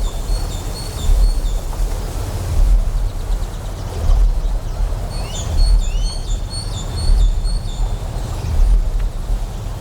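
Deep generator hum that swells in a steady pulse a little more than once a second, over a hiss of flowing water. Bursts of short, rapidly repeated chirps come in about halfway through.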